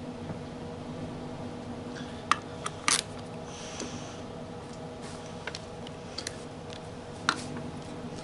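Hand tools working on an aluminium throttle body: a few scattered sharp metal clicks and clinks, the loudest a double click about three seconds in and another near the end, over a steady background hum.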